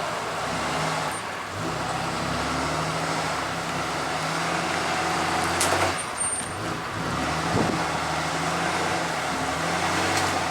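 An engine running steadily at low revs, with a single sharp knock about six seconds in.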